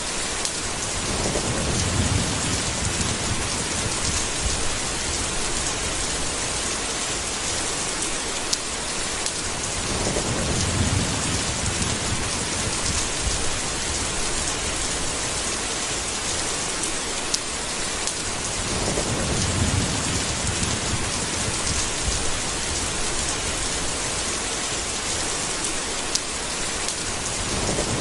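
Steady heavy rain hiss, with low rolls of thunder swelling and fading about every nine seconds, four times.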